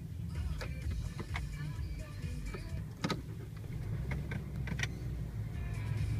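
Low, steady rumble of a running vehicle engine, with a few scattered sharp clicks.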